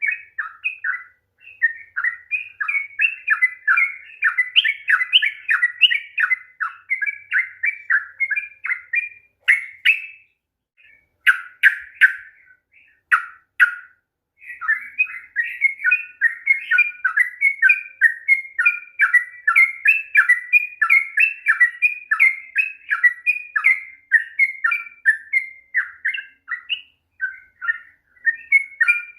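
Yellow-vented bulbul (trucukan) singing a long, fast run of bubbly chattering notes. The song breaks off about ten seconds in, with only a few scattered notes, then resumes a few seconds later and runs on.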